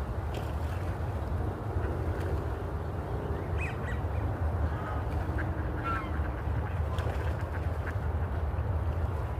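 Birds giving short, scattered calls over a steady low rumble.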